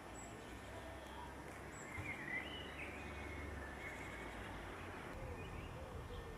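Steady low background rumble with a few faint bird chirps, bunched about two to three seconds in.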